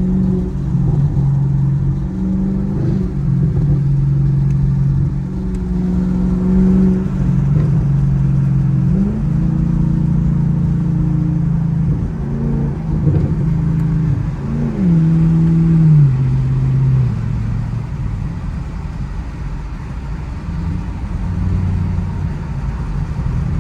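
Chevrolet Camaro SS's 6.2-litre V8 and exhaust driving along, the engine note rising and falling with throttle and gear changes: a short rise about nine seconds in and a drop about fifteen seconds in. After about seventeen seconds it eases off, lower and quieter.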